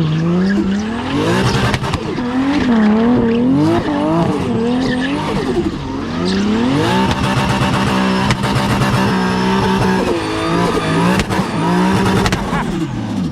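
Nissan Silvia S15 drift car's engine revving hard, its pitch swinging up and down as it drifts, then held steady for a few seconds in the middle, over tyre squeal from the sliding rear tyres. A few sharp cracks cut through, and the engine note falls away near the end.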